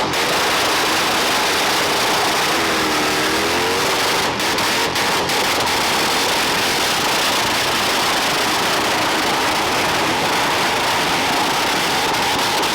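Vehicle engine running loud and steady over a dense hiss, with a brief rise and fall in pitch about three seconds in.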